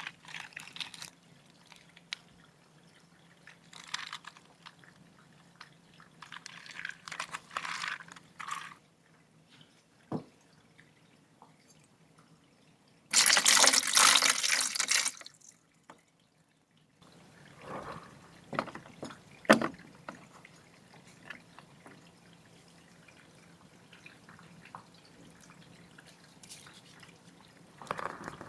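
Water pouring and dripping in short spells, with one louder rush of water lasting about two seconds around the middle, and a few light clicks and taps of handling.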